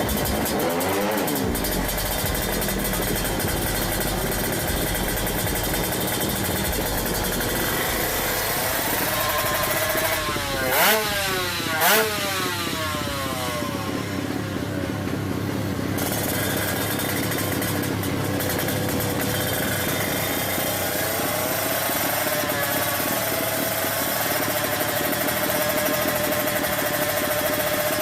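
Motorcycle engines running with continuous engine noise and repeated revving that rises and falls in pitch. Two short loud peaks come about eleven and twelve seconds in.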